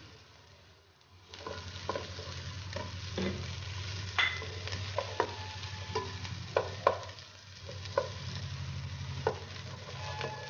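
Sliced onions, coconut slivers and green chillies sizzling as they fry in oil in a ceramic-coated wok, with a spatula scraping and clicking against the pan as they are stirred. The sizzle comes up about a second in.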